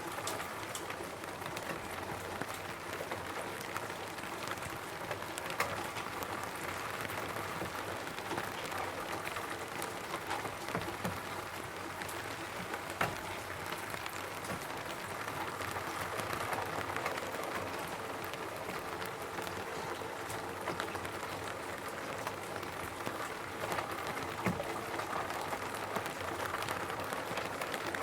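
Steady rain falling on a roof, an even patter with scattered louder individual drop hits.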